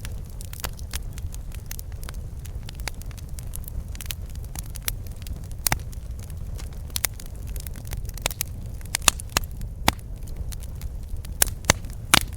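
Campfire burning, wood crackling and popping at irregular intervals over a steady low rumble of the flames, with a few louder pops near the end.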